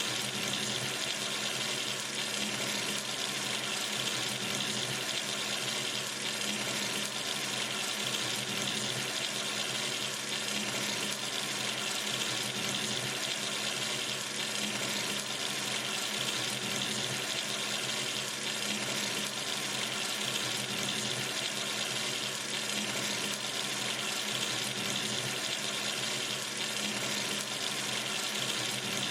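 Water running steadily from a sink tap into the basin, an even, unbroken rush.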